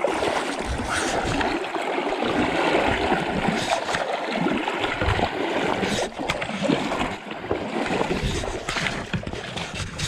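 River water rushing and splashing, a steady churning noise with a few brief splashes.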